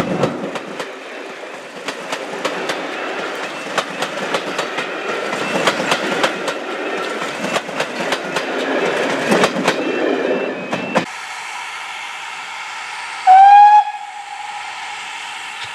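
Railway passenger coaches rolling past close by, their wheels clicking irregularly over the rail joints; the clatter cuts off abruptly about two-thirds of the way in. A little later a steam locomotive's whistle sounds once, short and loud, its pitch rising as it starts.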